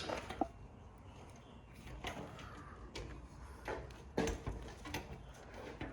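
Irregular clicks and knocks of a screwdriver and metal printer parts being handled during disassembly, with sharp knocks near the start and about four seconds in.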